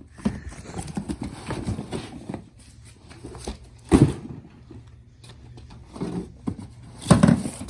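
Irregular knocks and clunks of items being handled and set down while sorting through a box, with a heavier thump about four seconds in and another near the end.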